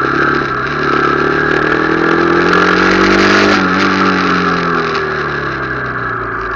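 Motorcycle engine accelerating, its pitch climbing for a couple of seconds, then easing off and falling away, over a steady rush of wind and road noise.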